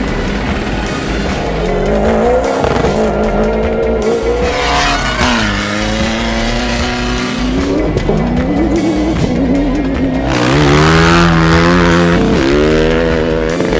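Rally vehicle engines revving up and down and passing by, their pitch rising and falling several times, with music underneath.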